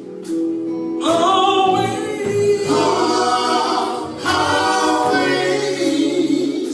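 Gospel vocal group singing in harmony, with new sung phrases coming in about a second in and twice more over held notes.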